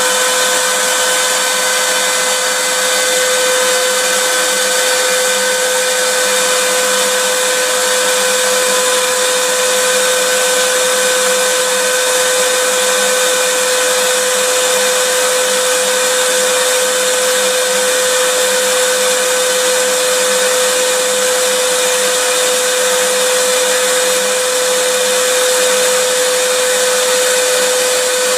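Vacuum cleaner motor running steadily: a constant rushing of air with a steady whine held at one pitch, unchanging throughout.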